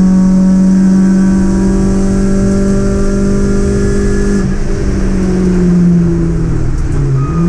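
Peugeot 106 1.6's four-cylinder engine heard from inside the stripped race-car cabin, pulling at steady high revs. About four and a half seconds in the revs drop and sag slowly, then pick up again near the end.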